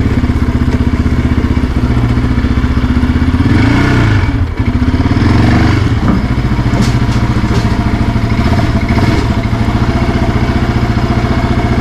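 Yamaha Raptor 700R ATV's single-cylinder four-stroke engine running steadily with a pulsing exhaust note. About four seconds in, the engine speed briefly rises and falls before settling back.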